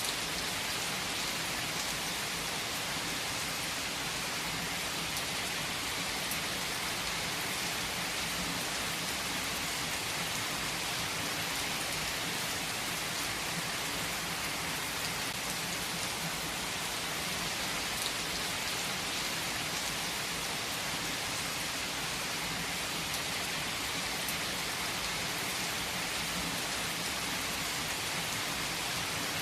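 Heavy rain falling steadily, an even hiss of rain on surfaces with scattered individual drop taps.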